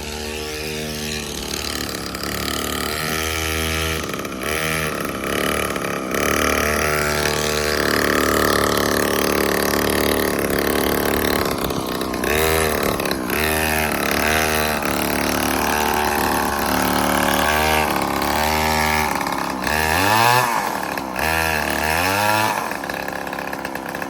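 Small child's dirt bike engine running, its revs rising and falling in repeated short blips as it is ridden.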